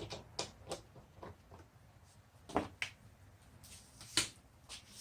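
Scattered knocks and clicks of a wooden workpiece and tools being handled and set down on a workbench, with two louder knocks about two and a half and four seconds in.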